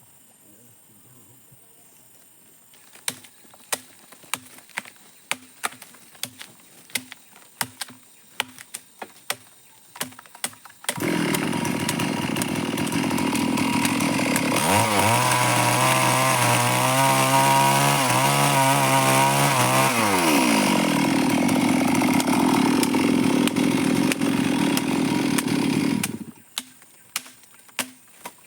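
Stihl chainsaw running at full throttle for about fifteen seconds, starting about eleven seconds in; midway its engine note drops and wavers for several seconds before rising again, then it cuts off. Scattered sharp knocks come before it and again after it stops.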